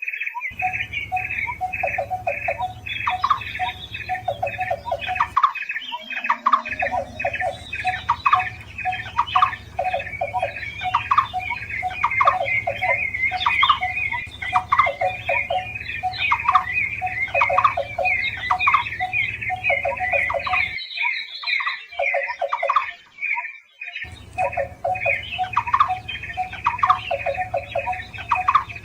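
Barbets calling over one another in a lure and tutor recording: fast, endlessly repeated short notes in several overlapping series, some high and trilled, some lower and knocking. The background drops out briefly about five seconds in and again for a few seconds past the twenty-second mark.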